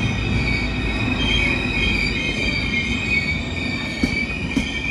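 Double-deck regional train pulling into the platform, its wheels giving a steady high-pitched squeal of several tones over a low rumble as it slows.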